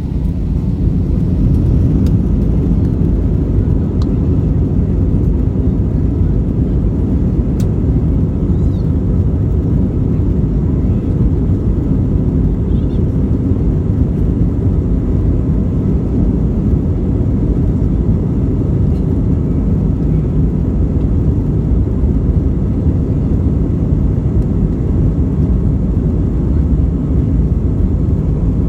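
Airbus A320 jet engines at takeoff thrust, heard inside the cabin during the takeoff roll: a loud, steady deep rumble that builds over the first second and then holds, with a few faint clicks and rattles.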